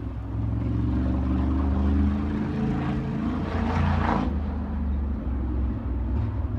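Sprint car's V8 engine running on throttle around the dirt track, its note climbing in pitch, then swelling loudest about four seconds in before dropping back.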